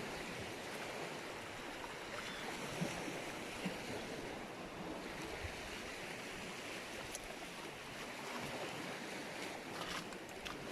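Sea surf washing steadily on the shore, with a few faint clicks.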